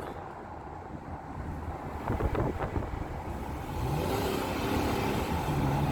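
A car engine running, with its pitch rising about four seconds in and then holding steady, over a low rumble of wind.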